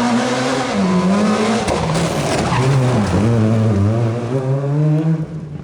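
Rally car engine at full throttle, its revs rising and falling repeatedly through gear changes and lifts, with a burst of tyre noise as it slides midway, then dropping away about five seconds in as the car moves off.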